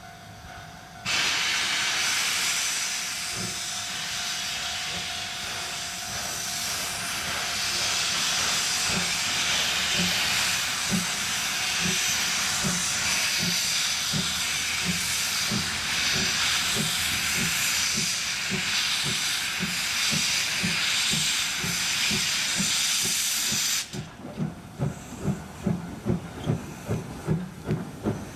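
C11 steam locomotive pulling away: a loud steam hiss from the open cylinder drain cocks starts about a second in, over exhaust chuffs that steadily quicken. Near the end the hiss cuts off suddenly as the drain cocks are closed, leaving the chuffs at about two a second.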